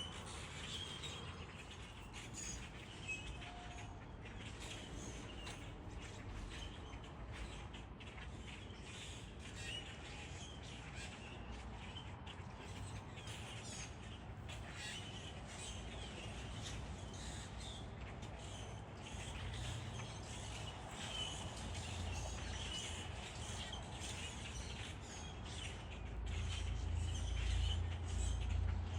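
Wild birds chirping and calling in many short, scattered notes, with a low rumble growing louder near the end.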